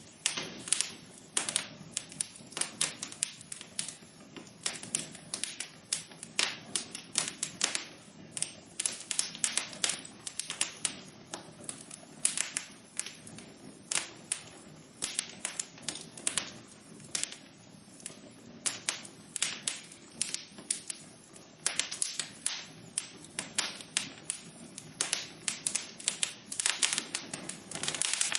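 Wood fire crackling in a fireplace: irregular sharp pops and snaps, some coming in quick clusters, over a faint steady hiss.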